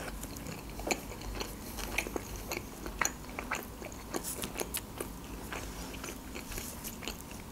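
A person chewing a mouthful of shawarma wrap close to the microphone, with irregular soft wet clicks and light crunches.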